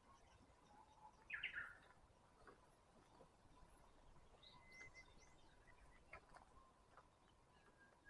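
Wild forest birds calling faintly: a quick burst of chirps about a second and a half in, then a few thin chirps and a short whistled note around the middle.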